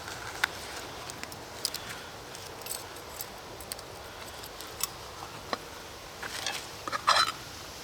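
Scattered sharp clicks and light metallic clinks from campfire cooking, with a short, louder run of clinking about seven seconds in, over a steady hiss.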